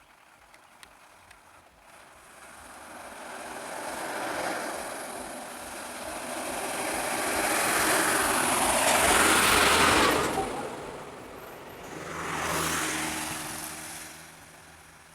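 Motor vehicles passing on a road. One approaches slowly, is loudest about ten seconds in and drops in pitch as it goes by. A second, shorter pass-by with a steady engine hum follows about two seconds later.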